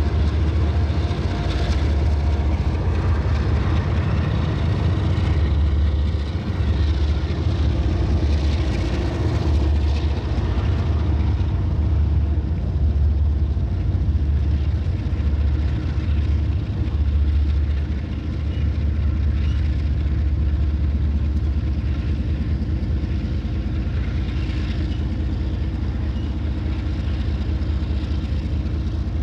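Diesel-electric freight locomotives idling with a steady deep rumble.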